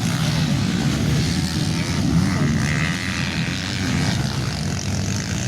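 Motocross bikes' engines running on the track, the pitch wavering up and down.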